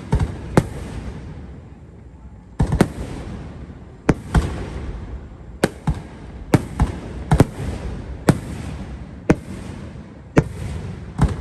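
Aerial firework shells bursting one after another, about fifteen sharp bangs at uneven intervals, some in quick pairs. Each bang is followed by a rumble that fades.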